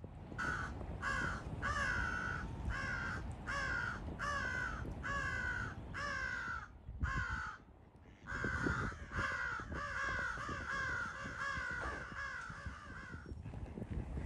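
Carrion crow cawing: about ten harsh caws, roughly one every two-thirds of a second, then after a short pause a quicker run of shorter caws.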